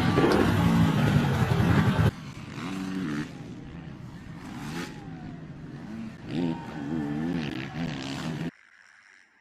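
Motocross dirt bike engines revving on track, loud at first, then quieter after an abrupt change about two seconds in, with the pitch rising and falling; the sound cuts off suddenly near the end.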